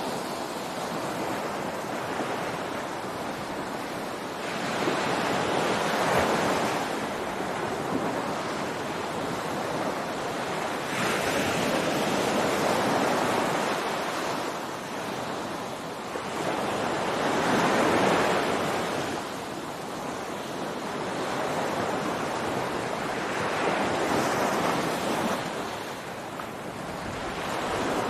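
Ocean surf on a beach: waves breaking and washing in, the rush swelling and easing every five or six seconds.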